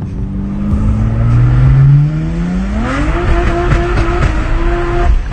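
2012 BMW 1M's twin-turbo straight-six, breathing through catless downpipes and an Akrapovic Evolution titanium exhaust, accelerating hard: the engine note climbs steadily for about three seconds, then holds high and steady near the top of the rev range.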